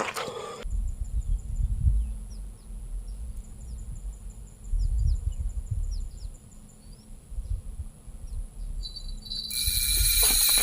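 Wind buffeting the microphone as an uneven low rumble, with faint high bird chirps over it. About a second before the end, a loud shrill insect buzz, like a cicada, starts up.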